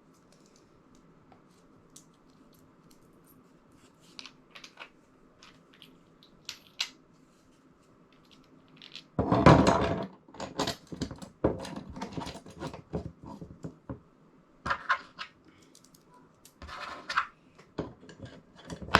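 Handling noise from assembling a battery-box kit: scattered small clicks, then about halfway a loud rustling clatter followed by repeated clicks, taps and knocks of parts and hardware being moved about. A faint steady hum sits underneath.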